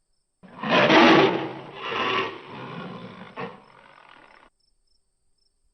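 Tiger roaring: a loud roar about half a second in, a second weaker one about a second later, then trailing off until it cuts off suddenly.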